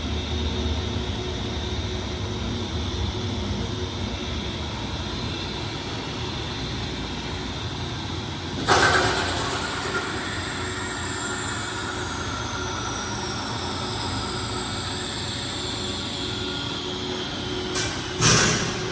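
Seydelmann AU200 frozen block grinder running with a steady mechanical hum. Two loud sudden crashes come, one about nine seconds in and one near the end. After the first, a faint high whine slowly falls in pitch.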